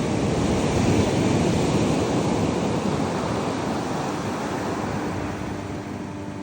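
Ocean surf breaking on the beach: a rush that swells in the first second and slowly fades as the wave washes out. A faint steady motor hum comes in near the end.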